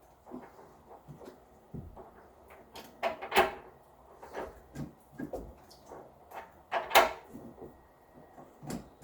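Anode rod being threaded into a water heater tank, its head knocking and clicking against the tank fitting and tools at irregular intervals. Two sharper metallic knocks stand out, one about three and a half seconds in and one about seven seconds in.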